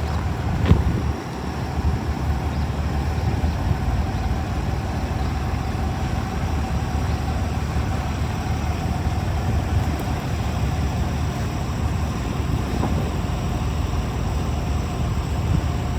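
Steady low rumble of city street traffic, with a brief click about a second in.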